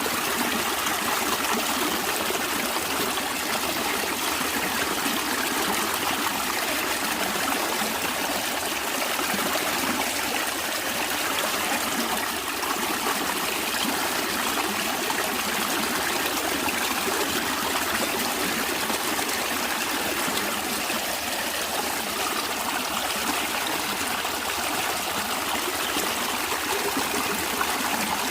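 Stream water running and trickling steadily, a continuous even rush with no breaks.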